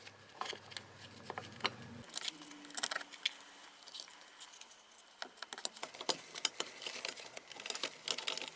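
Scattered light clicks and metallic clinks of small engine parts and tools being handled while a scooter's generator stator is fitted to the crankcase.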